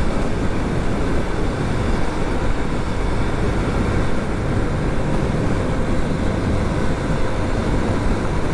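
Motorcycle riding at road speed: steady wind rush on the action camera's microphone over engine and road noise.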